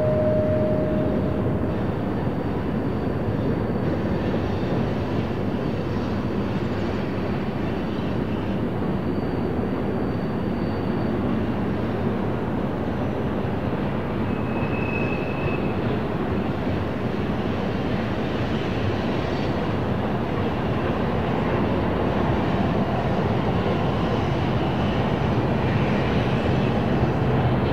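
Freight train running by, with the steady rumble of diesel locomotives and rolling cars and brief high-pitched squeals now and then.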